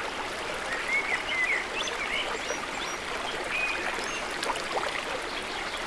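Waterfall rushing steadily, with short bird chirps over it several times.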